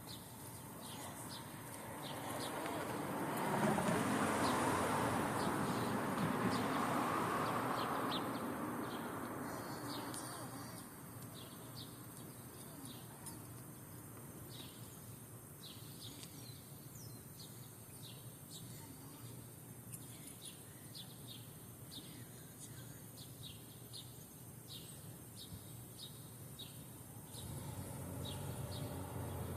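Small birds chirping in many short, quick calls throughout. A broad rushing noise swells and fades between about two and eleven seconds in.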